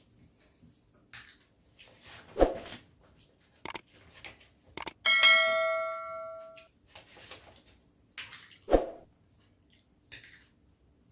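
Tableware clattering at a meal, with a metal dish or bowl struck about halfway through and ringing out for about a second and a half. Two duller knocks on the table come before and after it.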